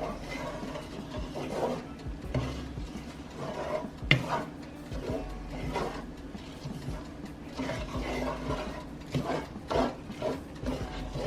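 A spoon stirring a thick mix of rice and cream soups in a pan, scraping against the pan in irregular strokes, with a sharp knock about four seconds in.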